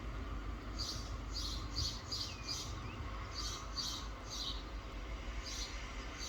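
Soft rain falling steadily with a low rumble underneath, while a bird chirps in short runs of quick high notes: about four, then three, then two.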